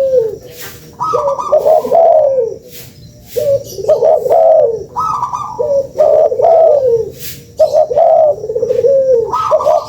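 Spotted dove (tekukur) cooing: a repeated multi-note coo phrase, each a little over a second long, coming back about every two seconds. This is the call used as a lure (pancingan) to draw in spotted doves.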